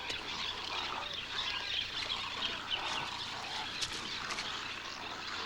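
A dense chorus of many birds calling at once, a continuous mass of overlapping chirps and squawks.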